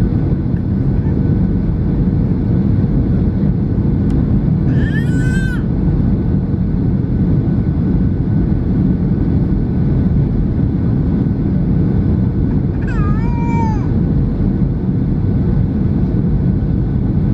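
Steady low rumble of engine and airflow noise inside a Boeing 737-700 cabin. Twice it is broken by a brief, high, wavering cry from a small child, about five seconds in and again near thirteen seconds.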